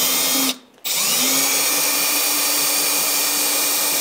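Cordless drill driver backing out a microwave mounting screw through the bottom of the upper cabinet. It stops briefly about half a second in, then spins back up with a rising whine and runs steadily.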